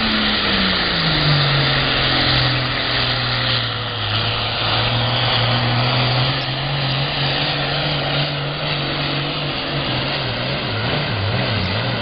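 Diesel engine of a Case 2290 super farm pulling tractor running flat out under load while dragging a pulling sled. Its pitch drops in the first second or so as the engine lugs down, then holds steady, and wavers up and down a few times near the end.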